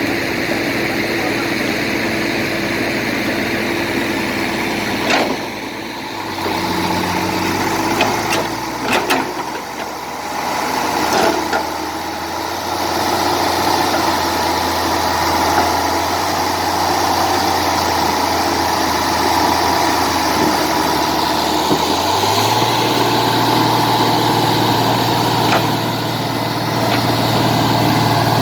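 Diesel engines of a heavy excavator and crawler bulldozer running and working. The engine note drops about six seconds in and rises again a little after twenty seconds, with a few sharp knocks in between.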